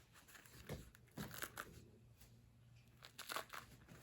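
Faint, scattered crinkling and tearing rustles from a roll of vet tape, the self-adhering cohesive bandage wrap, being handled and peeled.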